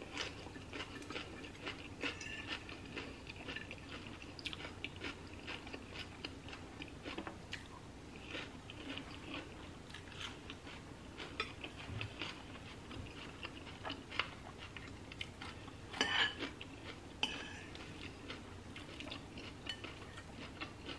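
Close-up chewing and crunching of food, mostly a chopped cabbage salad and a grilled cheese sandwich, as irregular small crackles and wet mouth clicks. Now and then a fork or spoon clinks on the plate or soup bowl, with a louder cluster of clicks about sixteen seconds in.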